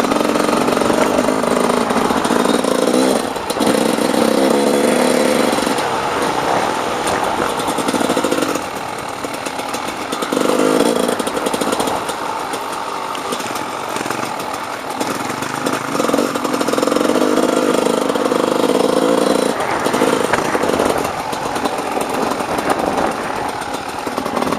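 Dirt bike engine running under load, the throttle opening and closing in spells of one to three seconds.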